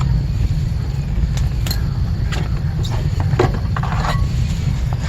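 GMT400 blower motor being worked free and lifted out of its plastic HVAC housing: a handful of separate plastic knocks, clicks and scrapes over a steady low hum.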